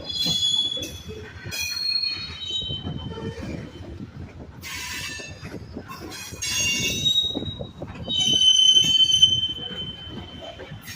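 Freight train cars rolling past with a steady rumble of wheels, their wheels squealing in repeated high-pitched spells, loudest near the end.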